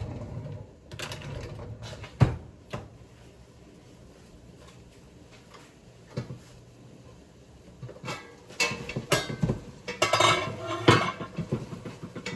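Dishes, pans and utensils clattering and knocking while being washed up and set down, with a few sharp knocks early and a busier, louder spell of clatter about eight seconds in.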